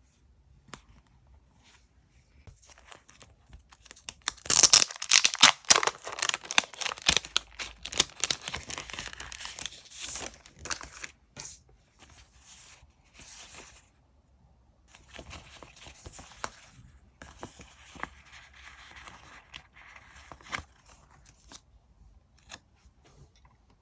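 Paper being torn and crinkled by hand. The sound is loudest for about seven seconds, starting some four seconds in, and then comes back as quieter stretches of rustling.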